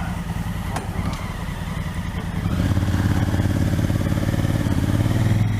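Motorcycle engine running on the road under wind and road noise. About two and a half seconds in it grows louder and its pitch climbs steadily as the bike accelerates, then eases off near the end.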